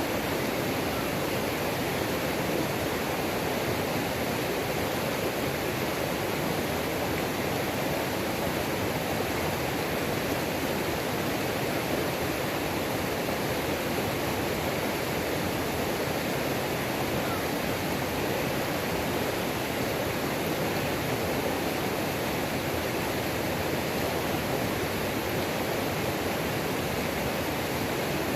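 Waterfall on a mountain creek: water pouring and rushing in a steady, unbroken stream of noise.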